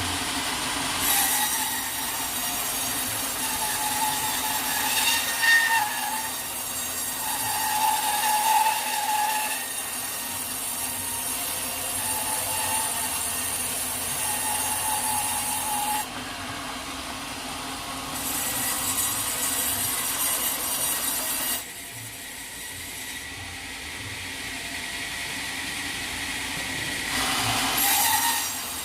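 Sawmill saw cutting through a teak log over a steady machine hum. The hissing, whining cut noise comes in three stretches: a long one at the start, a shorter one midway and a brief one near the end, with quieter hum between.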